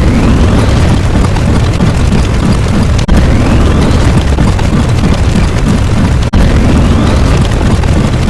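Loud rumbling explosion-like sound effect that restarts about every three seconds, each time with a faint whistle rising in pitch over the first second.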